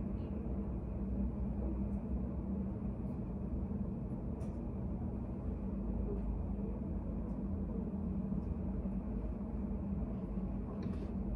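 Steady low hum and rumble of a study cafe's room ambience, with a couple of faint short ticks, one about four seconds in and one near the end.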